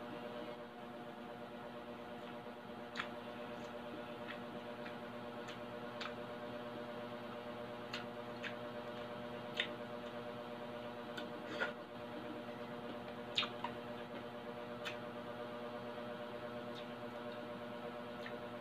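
Chewing crispy deep-fried pork belly by mouth: irregular sharp crunches and crackles of the crisp skin, about a dozen scattered through, over a steady background hum.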